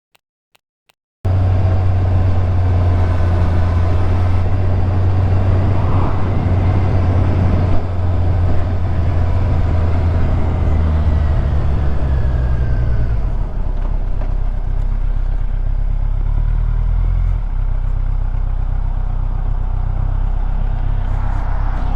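Motorcycle riding on the road heard from a helmet camera, the inline-four engine of a Kawasaki Ninja 1000SX running steadily under wind rush. It starts after about a second of silence, and the engine note drops lower about halfway through.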